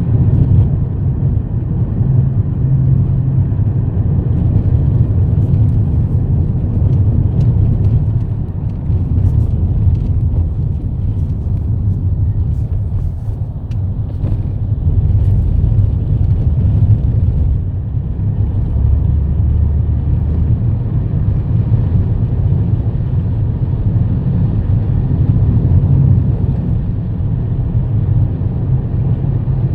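Steady low rumble of a car driving on the road, with a few faint ticks in the middle.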